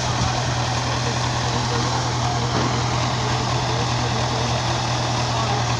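Tractor's diesel engine running steadily with an even low hum.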